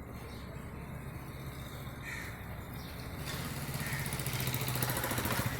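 A bird calling a few times, short calls about two seconds apart, over a steady low engine hum that grows louder from about three seconds in.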